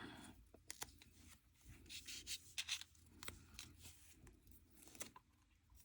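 Faint rubbing and light clicks of hands pressing and smoothing a nail polish strip onto a fingernail.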